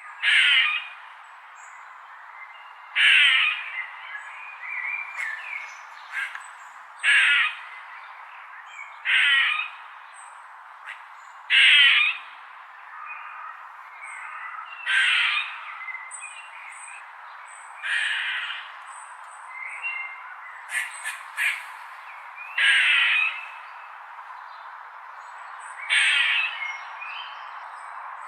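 A bird giving loud, harsh squawking calls, one every two to four seconds, over a steady hiss.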